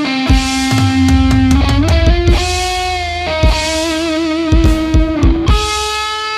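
Metal-style music: an electric guitar lead plays long held notes, several with a wavering vibrato, over bass and drum hits.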